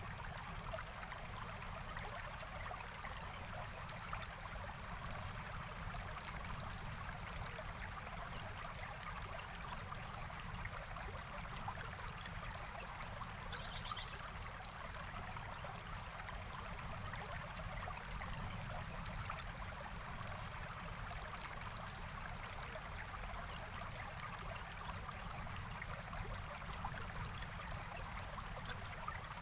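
Forest stream flowing steadily, a continuous rush of water, with a single short, high bird chirp about halfway through.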